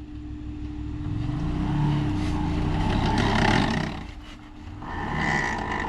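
Off-road buggy engine revving under load in two surges, easing off briefly about four seconds in, as the stuck machine tries to climb a rock obstacle.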